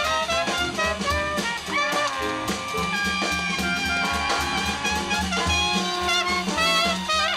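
Live six-piece jazz band playing a swing tune: horns and clarinet carrying the melody over a drum kit and bass.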